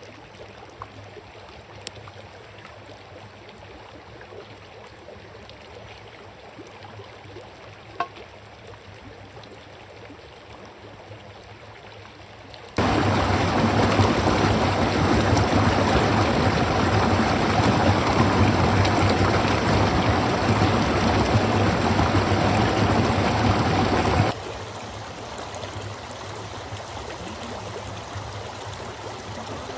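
Freezing mountain river flowing, a steady rush of water. It jumps abruptly much louder a little under halfway through, then drops back abruptly to a middle level later on, with a few faint clicks in the quieter first part.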